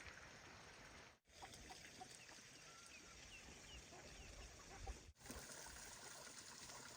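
Near-silent rural background with scattered faint, short high chirps of birds. The sound drops out completely for a moment twice, about a second in and about five seconds in.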